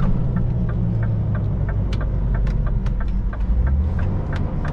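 Scania Next Generation truck driving, heard from inside the cab: a steady low engine and road rumble, with a light ticking about three times a second over it.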